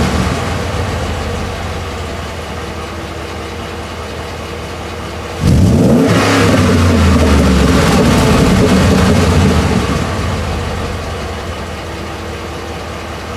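2012 Ford F-150's 5.0-litre V8 exhaust running loud, then fading away over several seconds. About five seconds in, the sound jumps back up abruptly with a quick rise in engine pitch, then fades again.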